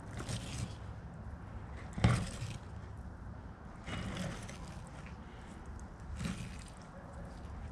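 Knife cutting and scraping along an alligator gar's backbone while filleting off the back strap, in short scraping strokes every second or two, with a sharp knock about two seconds in, over a steady low rumble.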